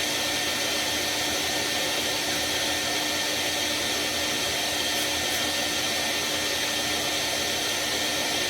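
Shop vacuum running steadily, drawing soot out of an oil boiler's flue passages during cleaning.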